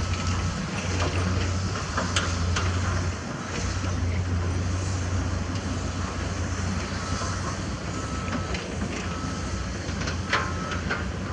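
Heavy construction machinery running with a steady low engine rumble, while a reversing alarm beeps at intervals. A few sharp metallic knocks come through, the loudest about ten seconds in.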